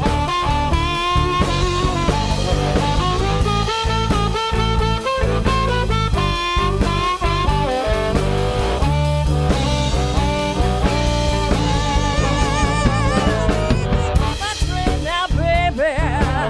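Live blues band playing an instrumental break without singing: a lead instrument plays a melodic solo over bass and a drum kit keeping a steady beat.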